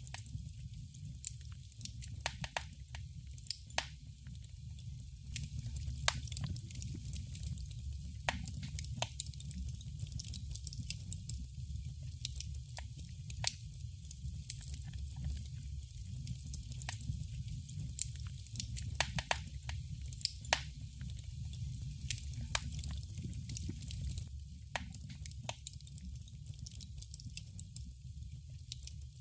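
Wood fire in a fireplace crackling: irregular sharp pops, several a second, over a steady low rumble.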